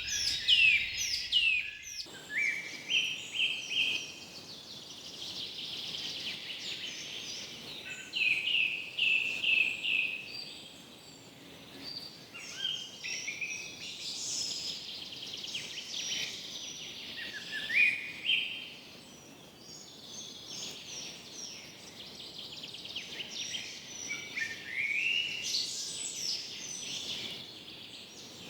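Several forest birds singing, with repeated chirping phrases and quick sliding whistled notes following one another, over a faint steady background hiss.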